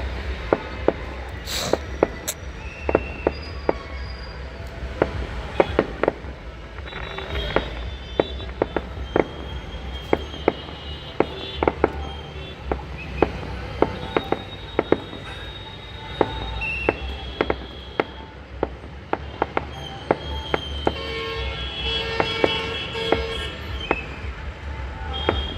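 Fireworks going off in a rapid, irregular string of sharp bangs and cracks, several a second at times, over a steady low rumble of traffic. Vehicle horns toot now and then, most plainly a little before the end.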